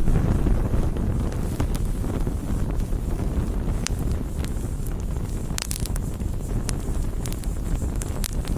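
Bonfire burning with a steady low roar of flames and scattered sharp crackles and pops of burning wood, a cluster of them about two-thirds of the way through.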